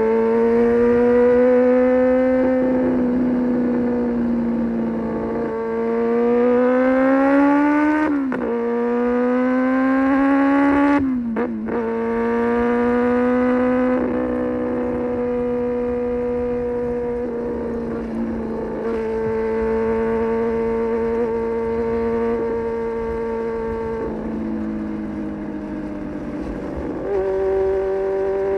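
Honda CB400 Super Four's inline-four engine through an SC Project exhaust, ridden and pulling hard. The pitch climbs and breaks off at gear changes about eight and eleven seconds in, then holds a steady cruise. The pitch drops after the middle and climbs again near the end.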